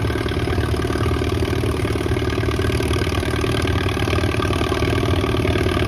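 Antique high-crop tractor's engine working steadily under load, pulling a weight sled down the track at an even pace.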